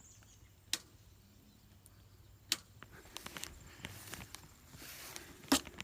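Quiet, with three sharp clicks or knocks about two seconds apart, the last the loudest, and light ticking and scuffing between them.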